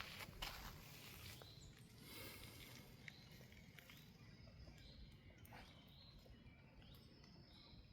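Faint forest ambience: a few footsteps on the forest floor in the first half-second, then quiet with faint, distant bird chirps.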